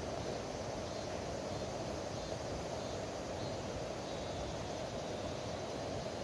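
A steady, even rushing noise with no breaks or sudden sounds.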